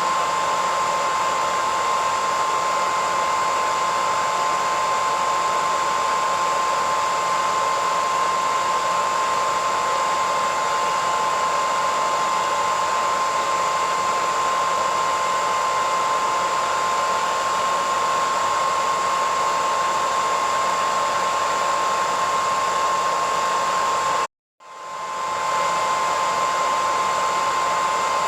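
Hair dryer running steadily: a constant rush of air with a steady high whine. Near the end it cuts out completely for a moment, then swells back in.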